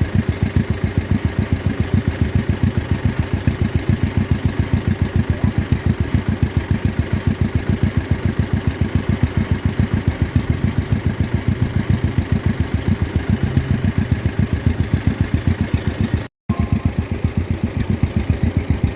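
1953 John Deere 40's two-cylinder engine running steadily at low speed, a rapid, even train of firing pulses. The sound cuts out for an instant near the end.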